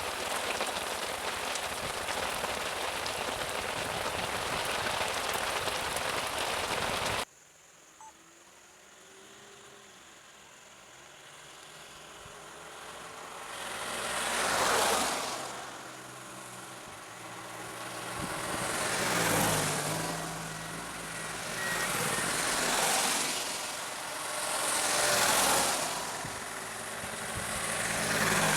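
Heavy rain pouring steadily, cut off abruptly about seven seconds in. Then vehicle engines and tyres on a wet road, swelling and fading five times as vehicles pass.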